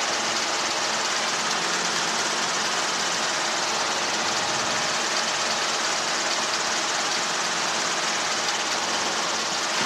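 Helicopter in flight heard from inside the cockpit: a steady, unchanging wash of engine and rotor noise with a faint hum.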